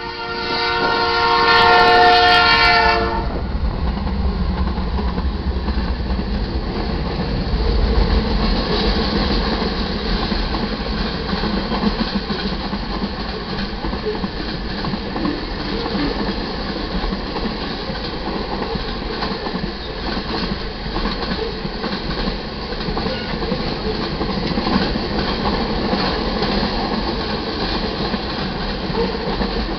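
Multi-note horn of a BNSF GE Dash 9-44CW freight locomotive sounding for about the first three seconds and then cutting off. After it comes the steady rumble and clatter of a long freight train's cars rolling past on the rails.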